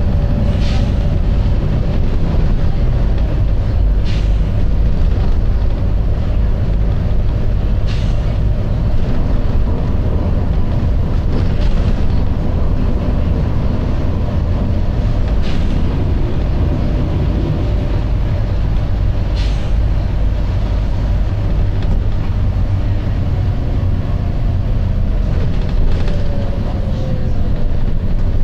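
Volvo B9TL double-decker bus running steadily with a low rumble and a faint whine, and short sharp air hisses from its air system about every four seconds.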